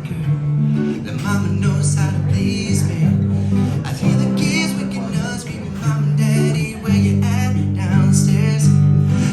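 A man singing a pop-country ballad over a strummed acoustic guitar.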